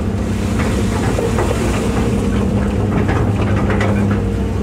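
Hitachi EX200-5 excavator's diesel engine running steadily while the machine tracks across the pond, with irregular clanks and knocks from the steel tracks and undercarriage.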